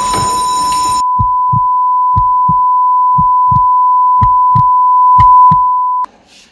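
Heartbeat sound effect, thumping in double beats about once a second from about a second in, under a steady high sine-wave beep. The beep grows louder and cuts off suddenly about six seconds in.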